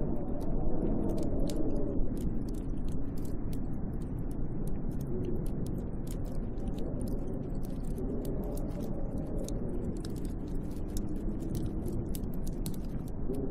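Snowstorm wind gusting around a hut, a low rumble with a moaning howl that rises and falls, swelling in the first couple of seconds and again about two-thirds of the way in. Many fine, irregular ticks of snow grains strike the hut throughout.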